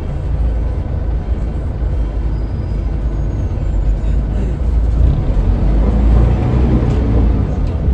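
A Scania L94UB city bus's engine running with a steady low rumble, growing somewhat louder and fuller in the second half.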